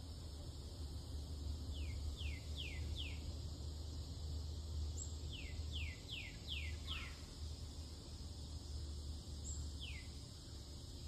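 A songbird singing runs of quick down-slurred whistles, four notes about two seconds in, five more around six seconds, and a single one near the end. Under it runs a steady low rumble and a faint, even high insect hum.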